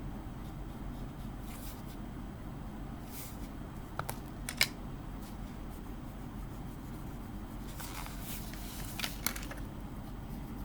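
Faint scratching and rubbing of pencil shading on paper over a steady low hum, with a few sharp clicks about four seconds in and again near nine seconds.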